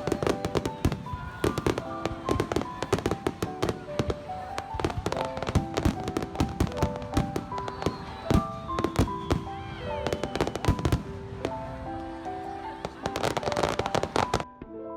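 Fireworks shells bursting in a dense, rapid barrage of sharp bangs and crackles, with piano music playing underneath. The bursts cut off suddenly near the end, leaving only the piano.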